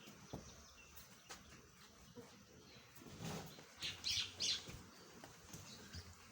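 A small bird chirping, with a short cluster of bright high chirps about four seconds in, over a quiet farmyard background with a few light knocks.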